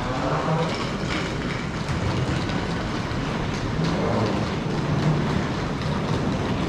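Train running on rails: a steady rumble with a low hum and faint scattered clicks from the wheels.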